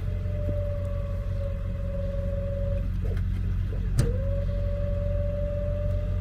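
Tow truck's hydraulic wheel-lift raising a car, a steady whine from the hydraulics over the truck's engine running. The whine stops just under three seconds in and starts again right after a sharp click about four seconds in.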